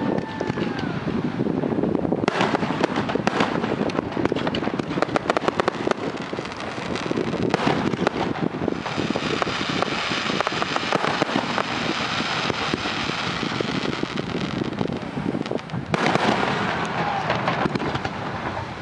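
Fireworks display going off in a dense, continuous barrage of bangs and crackling, with a couple of falling whistles right at the start.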